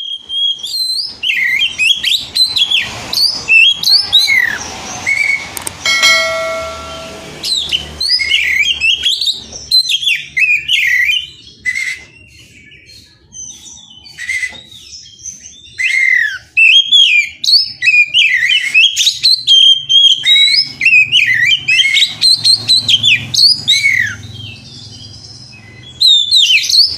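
Oriental magpie-robin (kacer) singing a fast, varied song of loud whistled phrases that rise and fall, with a quieter stretch about halfway through. This is the excited, aggressive song used as a lure to provoke other magpie-robins into singing. About six seconds in there is a brief steady tone with overtones.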